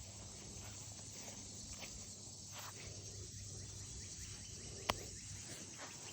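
Steady high-pitched hiss of an outdoor insect chorus, with a few faint rustles and one sharp click about five seconds in.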